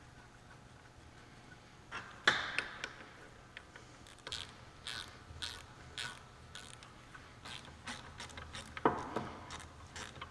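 Metal differential parts and hand tools being handled: a sharp metallic knock about two seconds in, then scattered light clicks and clinks, as the carrier with its setup bearings and shims is fitted in the Salisbury housing.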